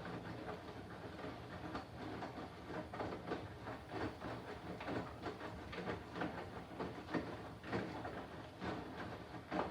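Candy front-loading washing machine in the wash stage of a 90-degree boil wash: the drum turns, with bedding and towels tumbling and sloshing through the water in uneven swishes and thuds over a steady motor hum.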